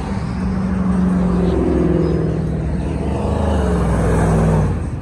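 Engine of a lifted Ford Bronco driving past, a steady low note that climbs in pitch as it accelerates, then falls away suddenly near the end.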